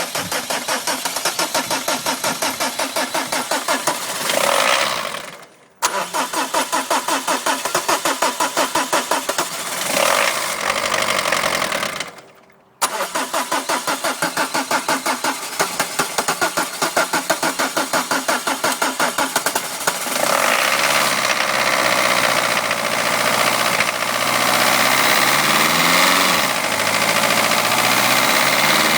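Peugeot 306's XUD four-cylinder diesel being cranked on the starter in three attempts: twice it fires briefly and the cranking stops, and on the third try it catches about two-thirds of the way through and runs, its revs rising and falling once. It is hard starting because the injection timing is out.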